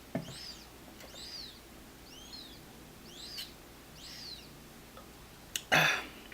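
A bird singing a repeated chirp, five times at about one a second, each note sweeping up and then down. Near the end there is a short, loud burst of noise.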